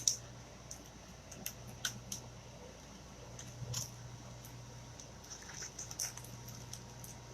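Adhesive chalk-art transfer being peeled off a glass surface: faint, scattered crackles and ticks as the sticky film pulls away from the glass, over a faint steady low hum.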